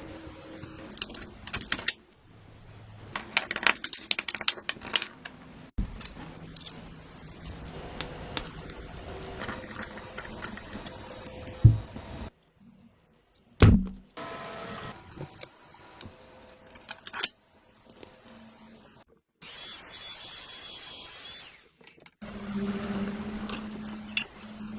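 Small tools and parts being handled during a power sander repair: clicks, scrapes and two sharp knocks. A steady hiss runs for about two seconds near the end, followed by a steady low hum.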